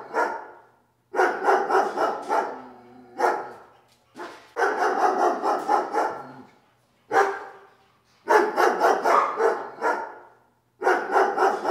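A dog barking in quick runs of several barks, each run lasting a second or two, with short pauses between them.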